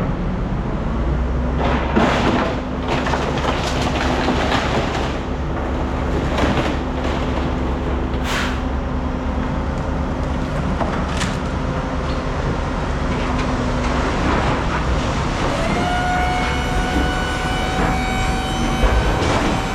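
A vehicle running: a steady rumble with a low hum, a few knocks, and a higher whine that comes in about three-quarters of the way through and holds steady.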